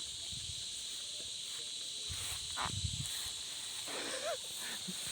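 Night insects, crickets, chirring in a steady high-pitched chorus, with a few faint low knocks.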